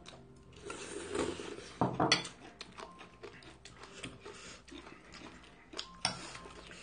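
Close-up eating noises: chewing and mouth sounds, with a few light clicks and knocks of dishes or utensils, one near two seconds in and another about six seconds in.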